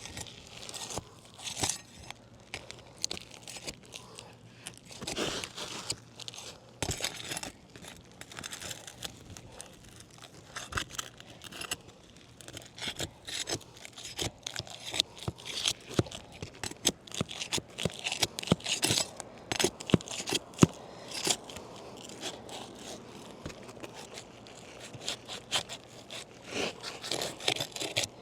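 Asphalt roof shingles being worked loose by hand and with a pry bar: irregular scraping, tearing and sharp clicks as the sticky shingles are pulled free and nails are pried.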